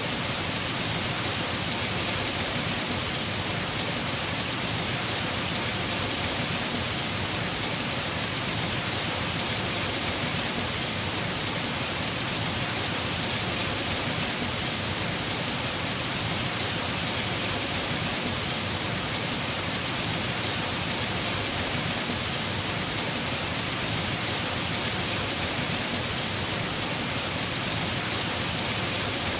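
Heavy rain falling steadily on a house roof, a dense even patter with no let-up or distinct events.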